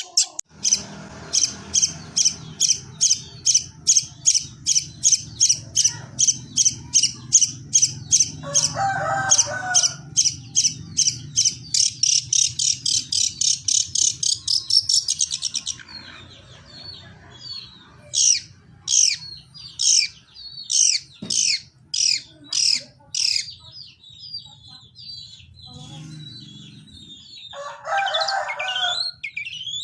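Long-tailed shrike (cendet) singing sparrow-like calls: a long run of rapid, high, repeated chips, about three a second, then after a pause a string of downward-sweeping notes about two a second, then softer twittering. A short, lower call breaks in twice.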